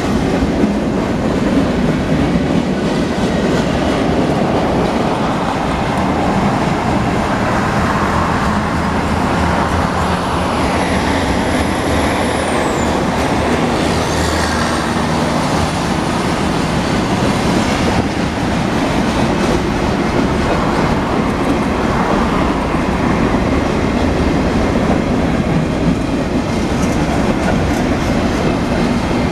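Freight cars of a Union Pacific mixed freight train rolling past, a steady rumble and clatter of steel wheels over the rails. Thin high wheel squeals come and go between about nine and eighteen seconds in.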